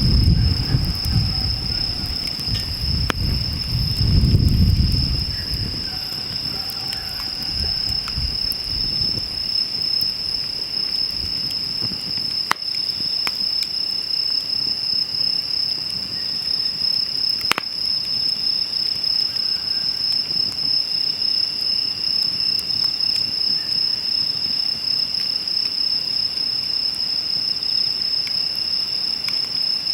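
Steady, high-pitched chorus of insects, typical of crickets, with a few sharp pops from a wood fire burning in a fire stand. A low rumble in the first few seconds fades out.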